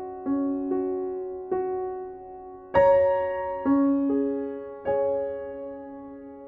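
Soft background piano music: slow single notes and chords, each struck and left to ring and fade, the loudest chord about three seconds in.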